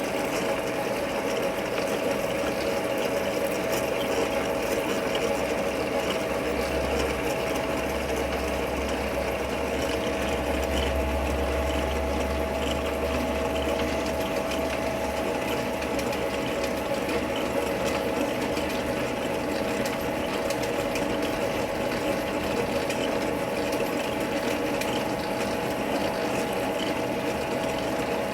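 Manual metal lathe running under power with a steady whine from its drive. A deeper hum swells from about six seconds in to about fourteen seconds in.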